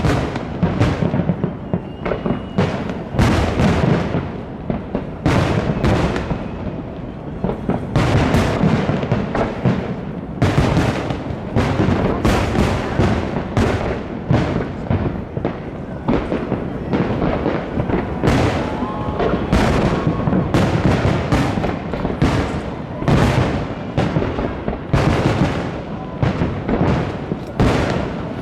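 A large aerial fireworks display: shells bursting in a rapid, continuous barrage of loud bangs and booms, many overlapping, with the crackle of bursts between them.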